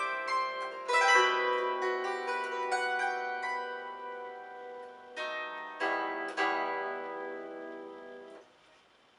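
Solo plucked-string instrument playing the last bars of a folk-song arrangement: a quick run of notes, then three final chords between about five and six and a half seconds in. The chords ring on and stop abruptly about eight and a half seconds in, leaving near silence.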